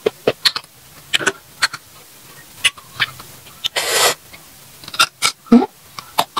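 Crisp young green ambarella (cóc non) being bitten and chewed close to the microphone: sharp crackly crunches and mouth clicks, with a short breathy hiss about four seconds in.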